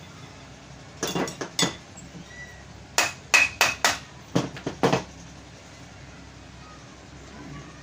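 A hammer tapping on the metal parts of a pedestal fan's motor during a bearing change: a quick run of about four taps, then after a short pause about eight more, sharper taps.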